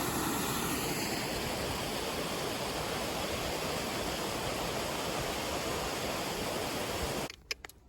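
Rushing water, a steady loud hiss that cuts off abruptly about seven seconds in, followed by a couple of faint clicks.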